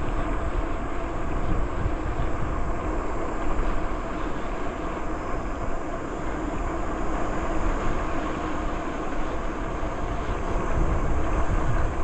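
Steady wind rush buffeting the microphone over the rolling noise of a moving bicycle's tyres.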